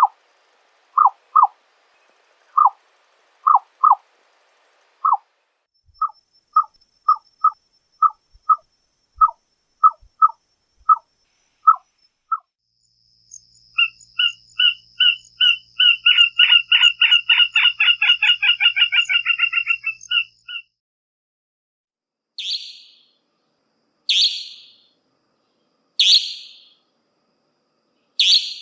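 Nightjar calls: short knocking notes about once a second, then from about halfway a series of notes that speeds up into a fast rattle and stops, then sharp falling calls about every two seconds.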